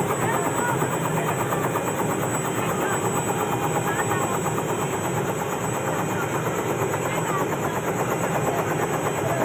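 Helicopter's engine and rotor running steadily, the blades beating in a rapid, even chop.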